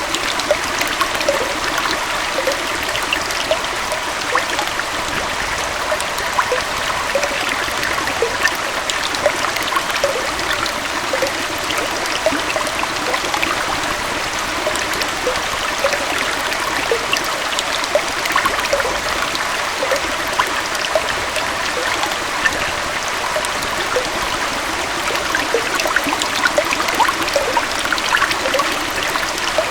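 Gentle waterfall running into a stream: a steady rush of flowing water with frequent small splashes and bubbling plinks.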